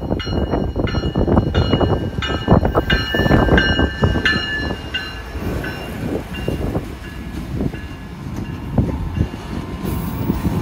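Diesel-electric freight locomotives passing close at speed: a heavy rumble of engines and wheels on the rail. High ringing tones lie over it for the first few seconds and fade out about five seconds in.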